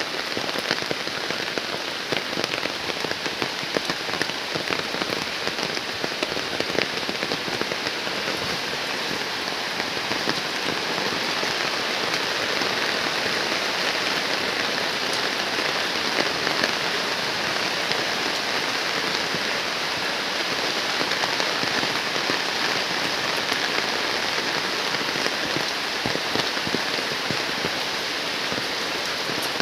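Heavy rain falling steadily: a dense, even hiss of rain with countless close drop impacts, growing slightly louder about ten seconds in.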